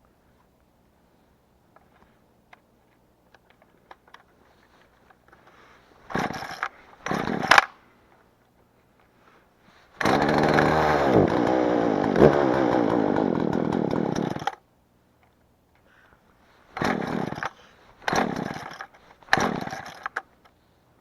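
Two-stroke chainsaw run in short bursts: two brief revs, then one run of about four and a half seconds with the pitch sagging, then three more brief revs.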